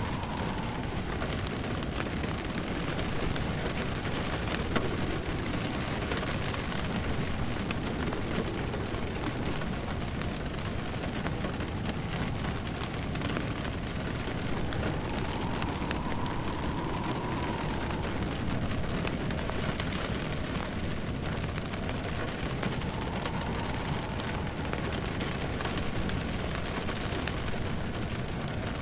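Steady rain pattering, layered with a crackling fireplace. A faint wind howl rises and falls twice in the second half.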